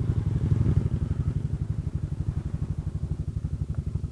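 Kymco Xciting 400i scooter's single-cylinder engine idling, a steady, even low beat.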